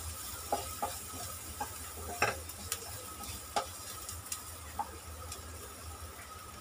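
Chopped onions with chilli powder and turmeric frying in oil in a non-stick kadhai, a steady sizzle, while a spatula stirs them, scraping and knocking against the pan every second or so.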